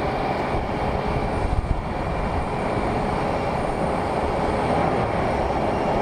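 Jet aircraft engines running at an airport, a steady, even noise with no breaks.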